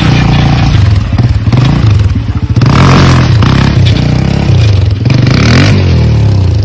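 Dirt bike engine revving up and down several times under hard throttle. A harsh rush of noise comes about three seconds in and again shortly before the end.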